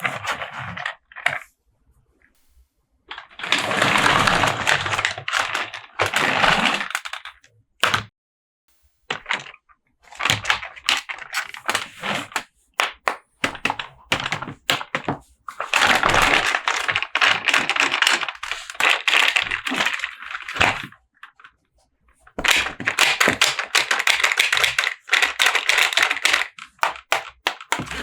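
Handling of toy packaging: bouts of a few seconds of dense crackling and rustling, like plastic or cardboard packaging being crinkled and torn, between quick sharp clicks and knocks of hard plastic parts.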